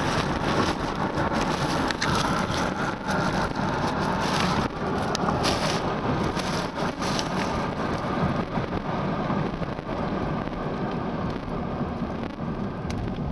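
A car driving, with steady road and engine noise and scattered sharp clicks and crackles.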